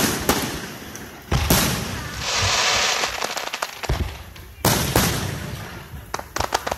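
Aerial fireworks shells bursting: a sharp bang at the start, two more about a second and a half in, and another near five seconds. Between them is a hissing crackle, and near the end comes a quick spatter of small cracks.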